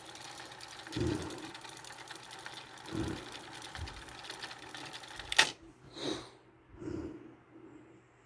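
Pioneer CT-F900 cassette deck's tape transport running with a steady whir and a few soft thumps, stopped by a sharp click about five seconds in, followed by two soft knocks.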